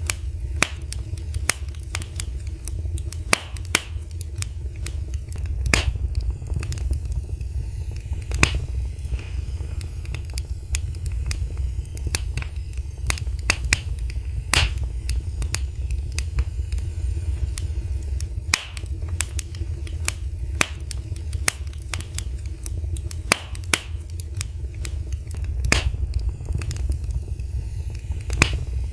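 Wood fire in a fireplace crackling, with irregular sharp pops and snaps, several a second, over a steady low rumble.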